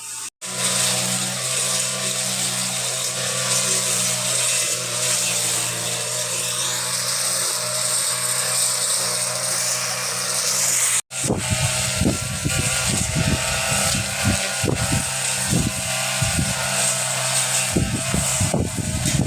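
A small motor running steadily, broken by two brief cuts; after the second cut, low irregular thumps sound over it.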